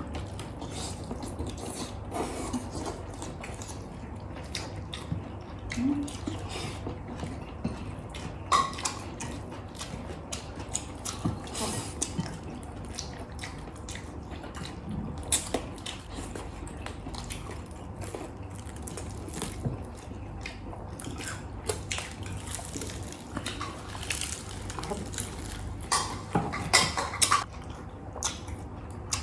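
Mukbang eating sounds: scattered clicks and clinks of utensils on dishes, mixed with wet, liquid mouth and food sounds.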